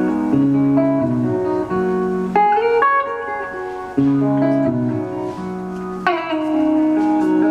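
Live music: guitar playing an instrumental passage of plucked notes, with a note gliding down about six seconds in.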